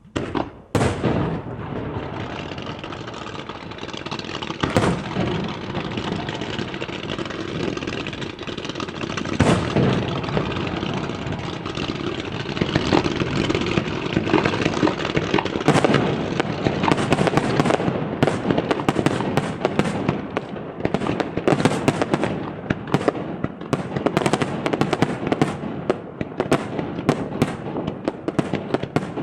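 Fireworks display: aerial shells bursting with sharp bangs over steady crackling, with a few single large bursts, then about two-thirds of the way through a fast barrage of many bangs in quick succession.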